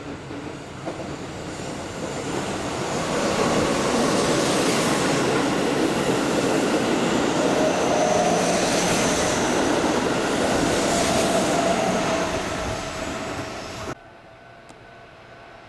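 Keihan limited express electric train passing through a station at speed: wheel and rail noise builds, stays loud for about ten seconds with a faint whine, then cuts off abruptly near the end.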